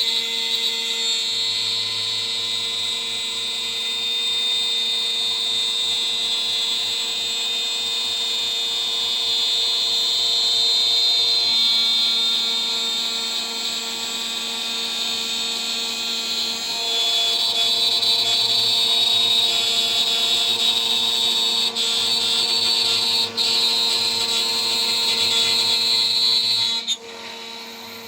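A DIY CNC router's spindle, spinning a 3 mm three-flute end mill at about 14,000 RPM, milling a part: a steady high whine and cutting noise that swells and eases as the tool moves. Near the end the cutting noise drops away sharply.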